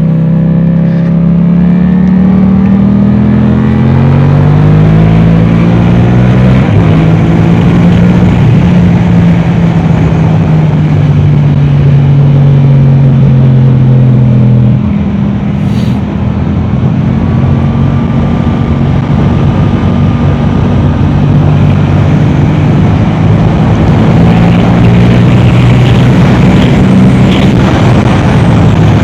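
Yamaha R7's 689 cc parallel-twin engine through an Akrapovic exhaust, revving hard at track speed. Its pitch climbs and then drops suddenly, about six seconds in and again about halfway through, as the gears change.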